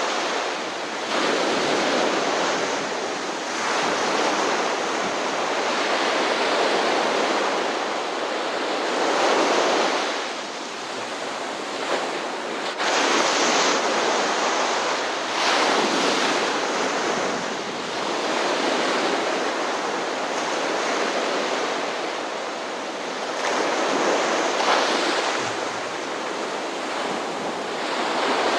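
Ocean surf: waves washing in and breaking in a steady rush that swells and ebbs every few seconds.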